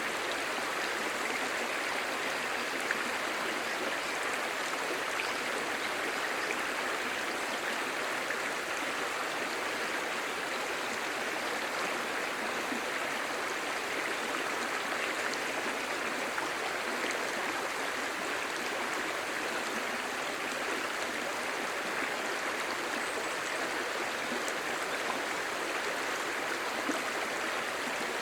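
A clear, shallow stream babbling steadily over stones, an even rushing burble of running water.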